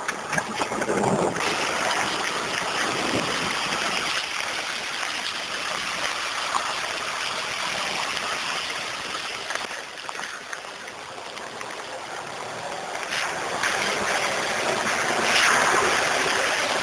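A steady rushing, splashing noise of water around a vehicle as it is driven through a flooded stretch of rough road; it eases off a little past the middle and gets louder again near the end.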